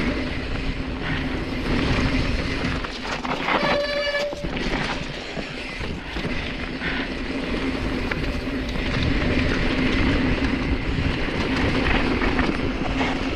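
Specialized Stumpjumper mountain bike rolling fast down a rough, rocky dirt trail: steady tyre rumble and rattle, with wind on the mic. About four seconds in, a brief squeal holds one pitch for about half a second.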